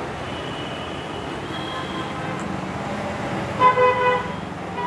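Steady traffic noise with an engine running, and a vehicle horn honking in about three short beeps a little past halfway through.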